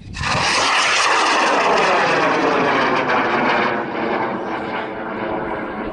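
High-power rocket motor firing at liftoff: a sudden loud roar that starts at once and eases off after about four seconds as the rocket climbs away.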